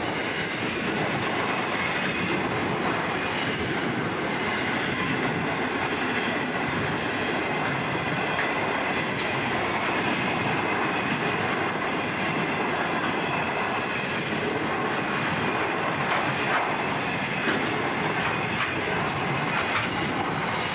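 Long container freight train's wagons rolling steadily past, a continuous wheel-on-rail rumble with a faint high thin tone riding above it.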